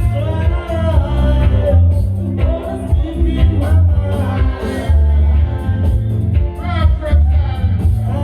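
Roots reggae played through a sound system: a heavy, pulsing bass line with a vocal over it.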